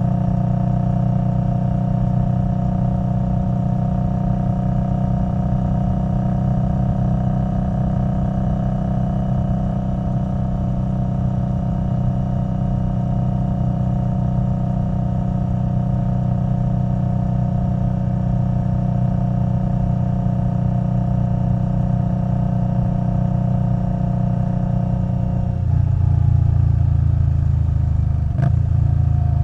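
Indian Scout Bobber Twenty's liquid-cooled V-twin running through a Vance & Hines Twin Slash exhaust, cruising at a steady engine speed. Near the end the note drops to a lower pitch and gets a little louder, with a short break in the note shortly before the end.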